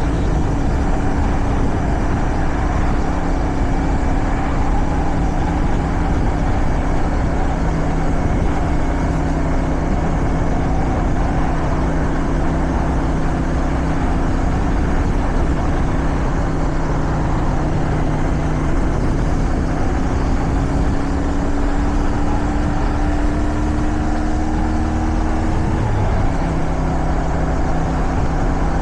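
Motorcycle engine running at a steady cruise under rushing wind noise. From about twenty seconds in the engine note climbs gradually, then drops suddenly near the end.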